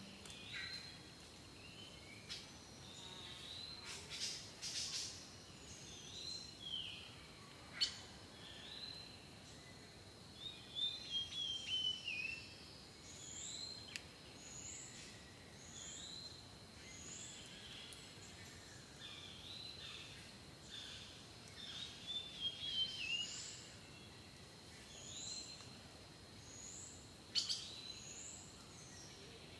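Birds chirping and calling, short curved chirps repeating about once a second over a faint steady high tone, with a couple of sharp clicks.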